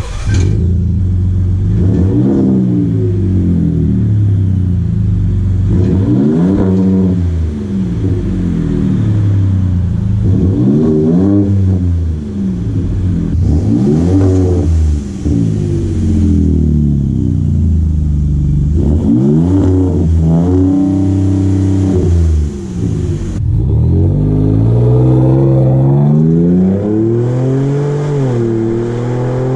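Ford Raptor's 3.5 EcoBoost twin-turbo V6 breathing through a Magnaflow MF Series cat-back exhaust, revved again and again in short blips that rise and fall back to idle. Near the end it is held at higher revs.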